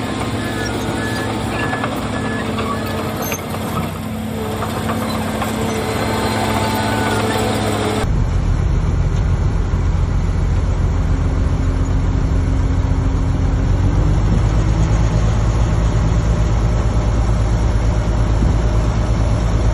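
Heavy diesel earthmoving machinery running, with a repeating beep in the first few seconds. About 8 s in, the sound cuts abruptly to a louder, deeper diesel engine rumble that stays steady.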